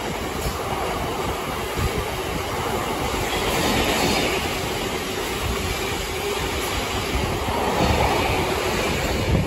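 Freight train's open box wagons rolling past: a steady rumble of wheels on rail with an occasional clack.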